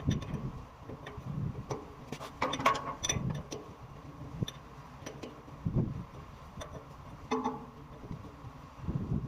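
Irregular clicks and knocks of hand tools on a hydrant under repair, over a steady low hum with a faint constant tone.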